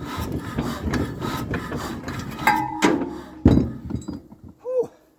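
1931 Ruston engine being cranked over by hand: irregular metallic clanking and rattling of the crank and engine, with one loud knock about three and a half seconds in, then dying away into a man's tired 'whew'.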